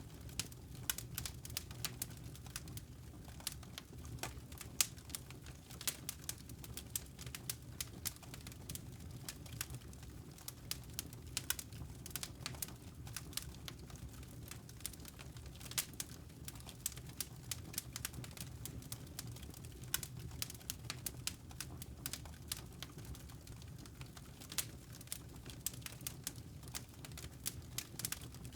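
Wood fire crackling in a fireplace: dense, irregular sharp pops and snaps, several a second and uneven in strength, over a steady low rumble.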